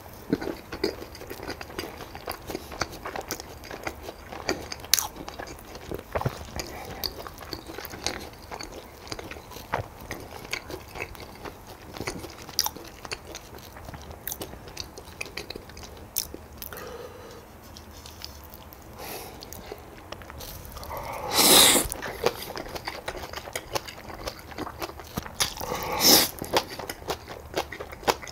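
A person chewing and crunching food close to the microphone, with frequent small wet clicks. Two louder eating sounds come about two-thirds of the way through and again near the end.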